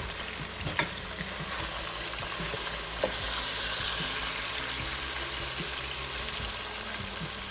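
Chicken pieces sizzling in hot oil in a pot while a wooden spatula stirs them, with a couple of knocks of the spatula against the pot.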